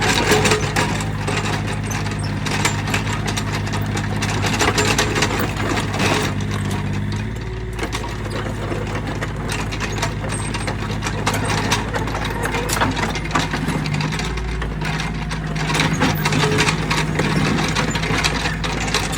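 Mini excavator's engine running under load while digging, with frequent clanks and rattles from the arm and bucket. The engine note shifts about seven seconds in and comes back around fifteen seconds.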